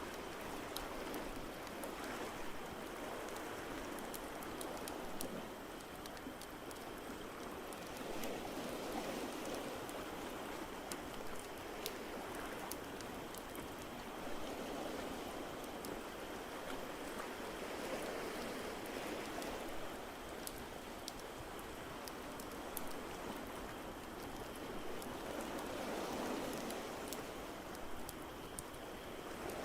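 Ocean waves washing in and out, swelling every several seconds, with a fireplace crackling in small sharp pops over them.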